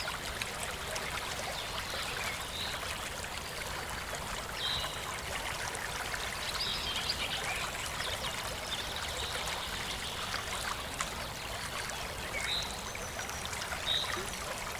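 Water running and splashing steadily at a small waterfall, with short high chirps now and then over it.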